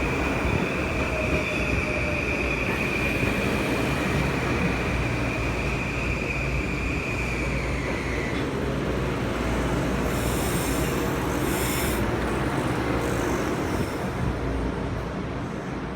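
Commuter train running through the station with a steady high-pitched wheel or brake squeal that stops about eight seconds in, over the continuous rumble of the train.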